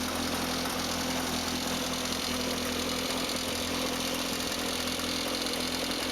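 Homebuilt tractor's 1600cc Toyota Corolla four-cylinder car engine idling steadily.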